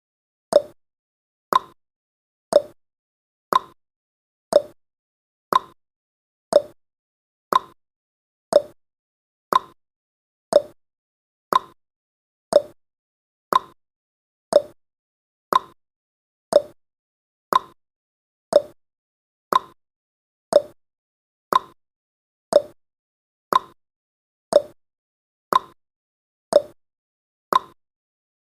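Clock-tick sound effect of a countdown timer: one sharp tick each second, evenly spaced, with silence between the ticks.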